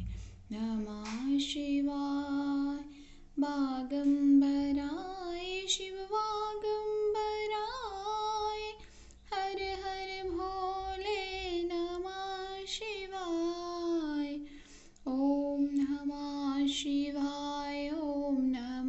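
A woman singing a Shiva bhajan solo, in long held, gliding phrases with short breaths between them, over a faint steady low tone.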